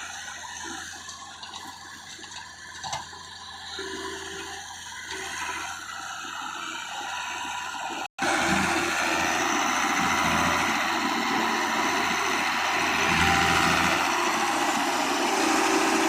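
Heavy machine's engine running under a steady rushing noise. The sound drops out for an instant about eight seconds in, then comes back louder.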